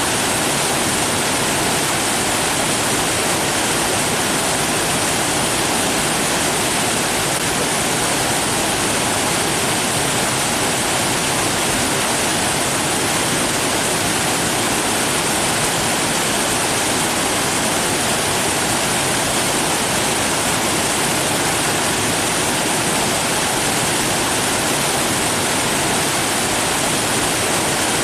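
Rushing water: a steady, even hiss that never changes or breaks.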